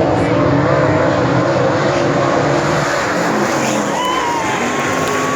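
Late model race cars' engines running at full throttle as the field circles the track, the pitch wavering up and down. A thin high steady tone joins near the end.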